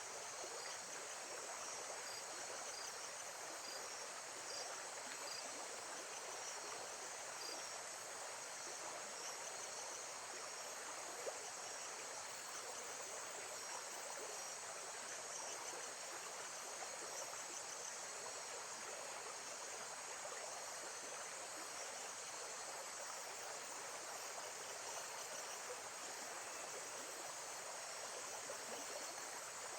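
Lakeside nature ambience: a steady, even wash of water, with faint, evenly repeating insect chirps high above it.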